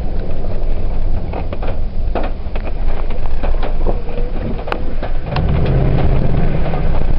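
2004 Ford F-150's 4.6-litre V8 running through a Thrush turbo muffler: a steady low exhaust rumble that grows heavier about five seconds in, with scattered light clicks and taps over it.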